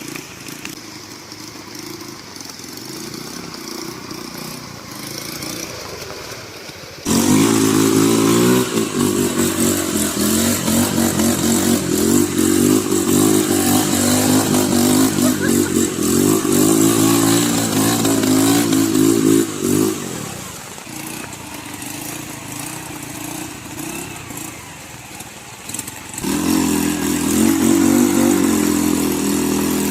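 Motorcycle engine of a homemade off-road bike running through its cut-down, re-welded silencer. It is quieter at first, turns suddenly louder about seven seconds in with revs rising and falling, drops back around twenty seconds, and comes back loud near the end.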